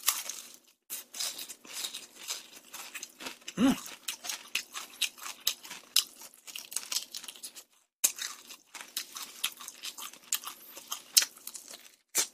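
Crunching and chewing of crispy rice-battered fried chicken wing, close to the microphone: many sharp, irregular crackles of the fried crust being bitten and chewed, with a few brief pauses.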